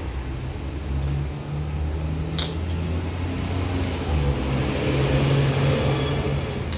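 An engine running steadily at low speed, a low hum that wavers slightly, with a sharp click about two and a half seconds in and another near the end.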